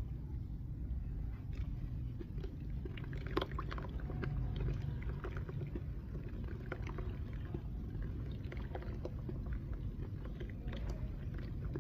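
Dry red dirt clay crunching and crumbling: scattered small crackles and clicks over a steady low rumble, with one sharper crack about three and a half seconds in.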